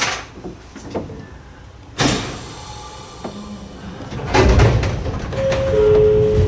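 Sliding doors of a narrow-gauge electric train closing, with a sudden hiss about two seconds in; from about four seconds the car rumbles and clanks as it gets moving. Near the end two short steady tones sound one after the other, the second lower.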